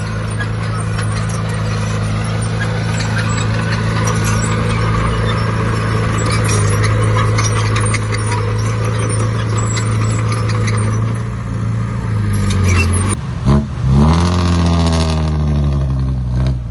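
Heavy diesel earthmoving engine running steadily under load with a fine metallic clatter. About thirteen seconds in the revs drop and break off, then climb again in a rising rev until the sound cuts off abruptly.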